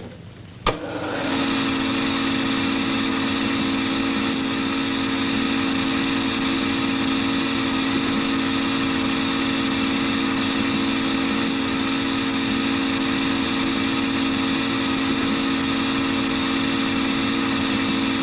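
A sharp click, then a film projector starting up and running with a steady, even mechanical hum of several held tones.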